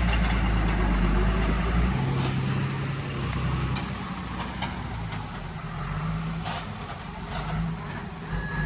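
Diesel engine of heavy earth-moving machinery running steadily, louder for about the first two seconds and then easing to a lower, even level.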